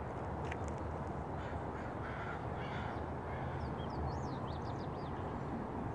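Birds calling over a steady low rushing background: a few harsh, rough calls about two seconds in, then a quick run of high, sweeping chirps about four seconds in.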